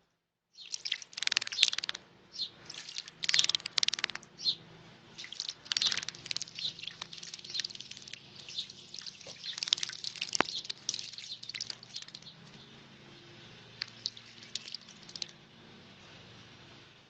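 A bird bathing in a shallow bowl of water, flapping and splashing in irregular bursts that stop a couple of seconds before the end.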